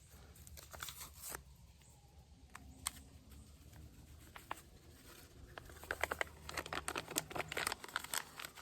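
Paper seasoning packets being handled, crinkled and torn open: a few scattered crisp ticks, then a dense run of crackling rustle over the last three seconds, over a faint steady low rumble.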